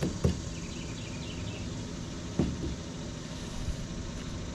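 Steady mechanical hum in a workshop, with a couple of light knocks right at the start and another about halfway through.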